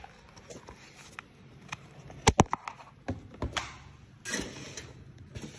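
Scattered clicks and knocks from handling a PAR LED stage light and its fittings, with a loud double click about two seconds in and a brief scraping rush near the end.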